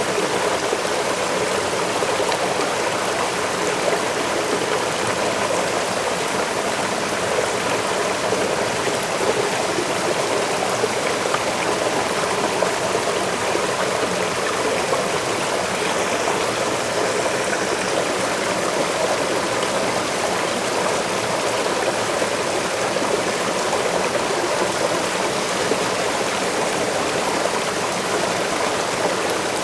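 Waterfall and stream water rushing in a steady, unbroken flow.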